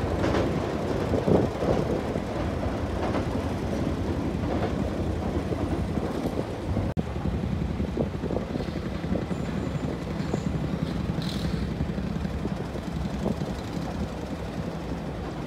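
JR Chuo Line commuter train rolling across a steel girder bridge: a low rumble with a few knocks in the first seconds, slowly fading as the train moves away.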